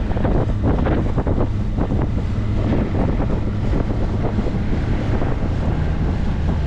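Wind buffeting the microphone aboard a small fishing boat on open water: a steady low rumble with water noise beneath.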